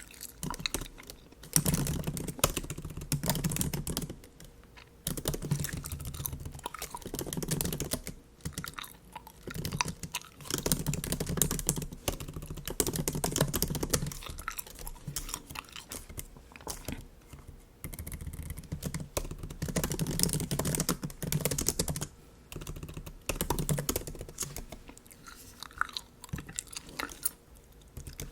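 Bubble gum chewed close to the microphone, mixed with typing on a MacBook keyboard that comes in runs of clicks a few seconds long with short pauses between.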